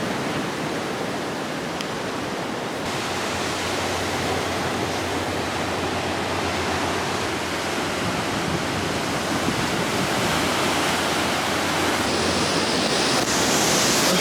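Steady rush of ocean surf with wind on the microphone, swelling a little louder near the end.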